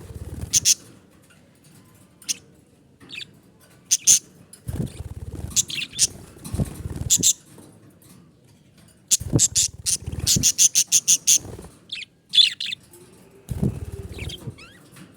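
Pet budgerigars chirping in short, high calls, with a quick run of chirps about two-thirds of the way through. Low thuds sound now and then underneath.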